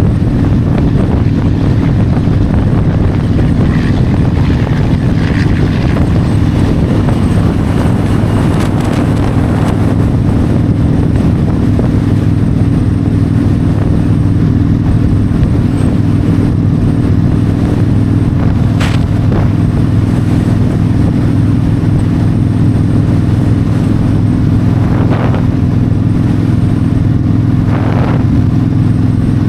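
Yamaha V-Star 1300's V-twin engine running at a steady cruising speed on the open road, with wind and road noise. A few brief, sharp noises cut through in the second half.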